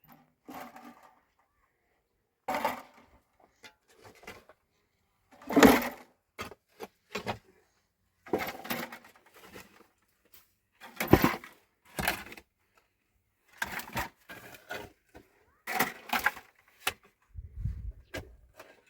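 A series of irregular knocks and clattering, about a dozen separate strikes, some sharp and some longer and scraping, with the loudest about six seconds in.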